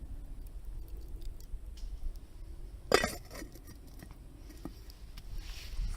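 A single sharp clink of hard objects about three seconds in, ringing briefly, with a few faint ticks scattered around it over a steady low rumble.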